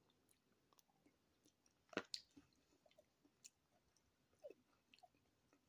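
Near silence broken by faint mouth sounds of a man chewing a mouthful of soft shepherd's pie: a few soft clicks and smacks, the loudest pair about two seconds in, then fainter ones spread through the rest.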